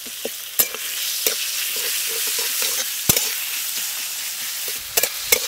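Sliced onions and garlic paste sizzling in hot mustard oil in a metal kadai, stirred with a metal spatula that clinks and scrapes against the pan a few times.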